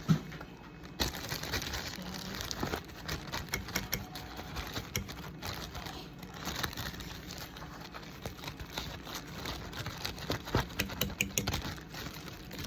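Plastic zipper bag crinkling and rustling, with many small clicks and taps, as the egg mixture inside it is handled and stirred.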